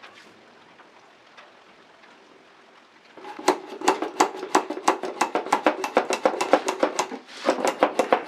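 Restored 1970s Wesco oil can's pump being worked quickly: a fast, even run of sharp metallic clicks, about six a second, starting about three seconds in.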